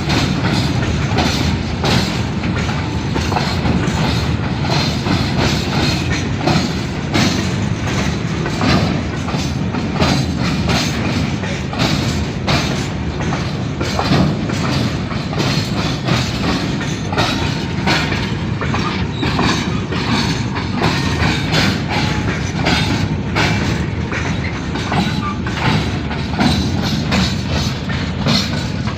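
A train passing close by, with a steady heavy rumble and the dense clatter of its wheels over the rail joints.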